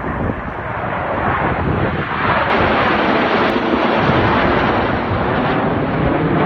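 Jet noise from the Snowbirds' CT-114 Tutor jets passing overhead, a broad rushing sound that swells about two seconds in and holds, over wind rumbling on the microphone.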